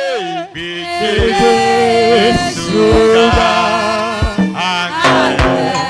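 Gospel praise singing in Yoruba: a lead voice sings held notes over keyboard chords and a steady drum beat.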